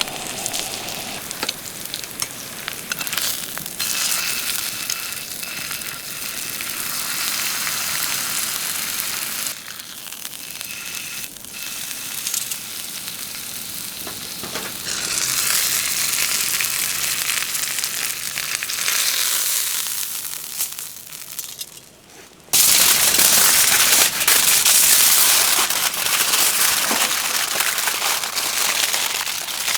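Thick-cut steak sizzling in an iron frying pan over a wood fire. The sizzle shifts in level at cuts and turns sharply louder about three-quarters of the way through.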